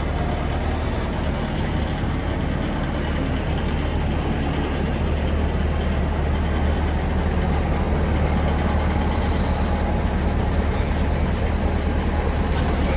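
Fortschritt E514 combine harvester's diesel engine running steadily with a constant low hum.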